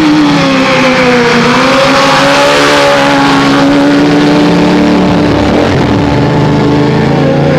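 Motorcycle engines running loud and close, a steady drone that dips slightly in pitch about a second in and rises again.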